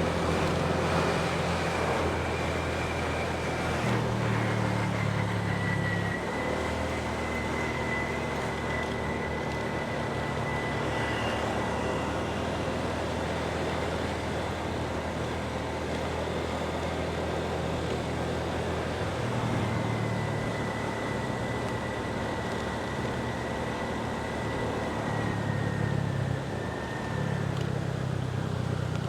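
Motorbike engine running steadily while riding, its pitch rising and falling as the throttle changes, with a faint high whine and wind and road noise.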